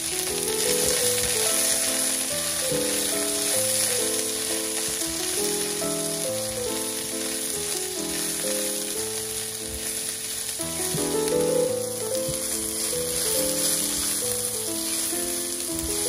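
Mushrooms sizzling and frying in hot vegetable oil in a nonstick wok as they are stirred and turned with a silicone spatula: a steady bright sizzle. Background music plays underneath.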